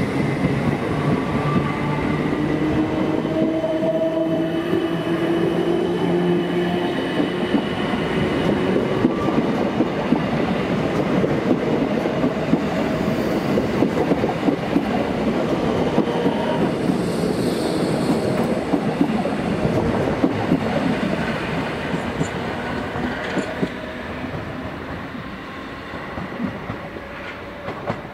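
South Western Railway Class 455 electric multiple unit pulling away, its traction motors giving a whine that rises in pitch over the first several seconds. The wheels then clatter over the rail joints, and the sound fades over the last few seconds as the train recedes.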